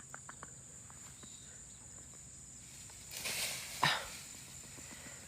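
A monkey's short call: a breathy hissing burst about three seconds in, ending in a quick sharp squeak.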